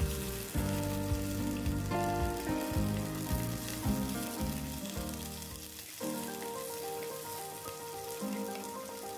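Sliced shallots, garlic, dried red chillies and curry leaves sizzling in hot coconut oil in an earthenware pan as they are stirred with a wooden spatula: the tempering for a green gram dish. A melody of background music plays over it.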